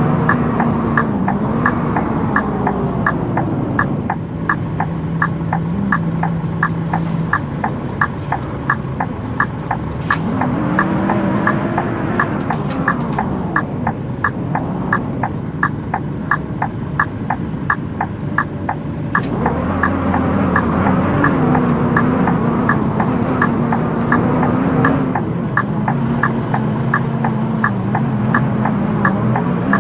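Scania K230UB bus engine running, its pitch rising and falling as the bus pulls away and shifts. Over it is a fast, regular clicking, about four clicks a second, from the bus's faulty 'buggy' wheels.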